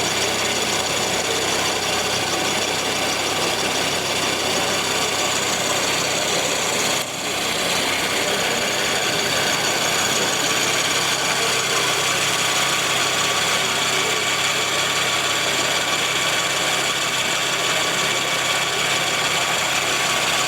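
Radio-controlled model trucks running with a steady engine-like drone and a steady high whine. There is a short break about seven seconds in.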